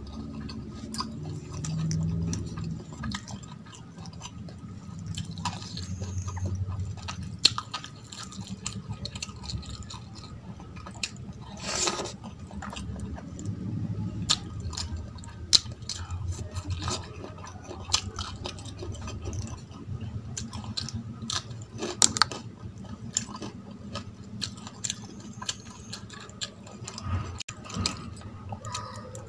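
Close-up chewing of rice and vegetable curry eaten by hand, with many short wet clicks and squishes from the mouth and from fingers mixing rice in a steel plate.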